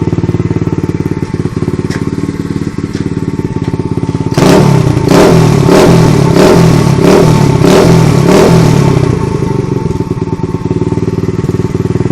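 125 cc dirt bike's single-cylinder engine idling, then revved in a quick run of throttle blips for about five seconds before dropping back to idle.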